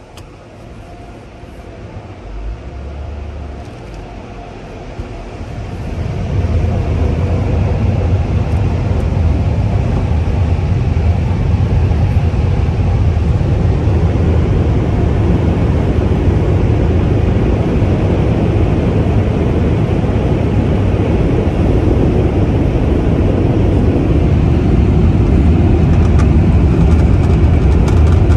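Car wash dryer blowers spinning up over the first few seconds, then running steadily and loudly with a deep hum under a broad rush of air.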